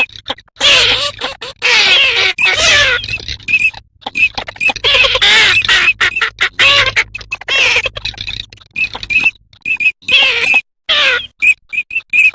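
Loud recording of dabbling duck calls: garganey, common teal and northern shoveler. Rapid, short calls come in dense bursts with brief gaps, over a faint low hum.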